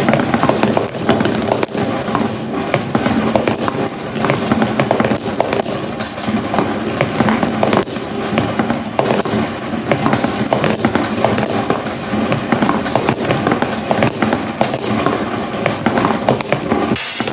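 Glass marbles rolling and clattering down a homemade marble run: a dense, continuous rattle of many small clicks as the marbles hit the track and each other. The sound cuts off abruptly near the end.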